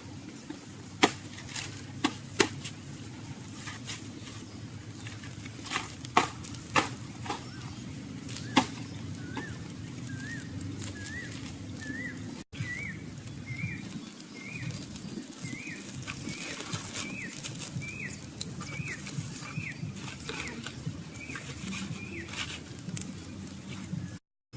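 A few sharp clicks or cracks in the first several seconds. Then a small bird chirps over and over, short hooked notes about two a second, until near the end.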